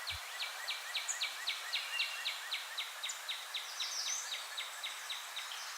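A bird calling: a steady series of short down-slurred notes, about four a second, over the hiss of a field recording.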